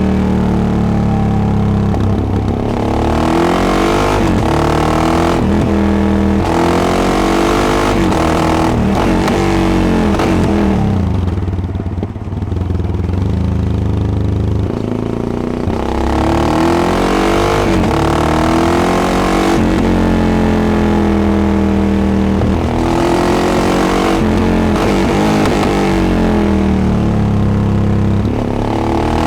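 Yamaha XT660X single-cylinder motorcycle engine through a Devil carbon exhaust, under way: the revs climb and drop again and again as it pulls and changes gear, with a short easing off of the throttle about eleven seconds in.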